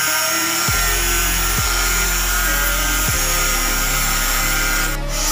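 Power grinder running steadily against a ship's propeller, its high whine and hiss mixed with background music that has a shifting bass line.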